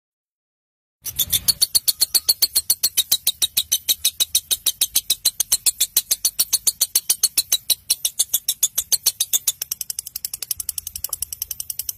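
Rapid, evenly spaced sharp clicking chatter, about eight clicks a second: a masteran song recording of a bird for training young lovebirds. It starts about a second in.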